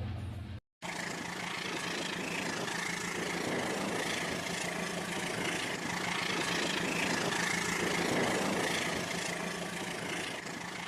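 Rail King model train running on its track: a steady hum of motor and wheels. A brief dropout to silence comes under a second in.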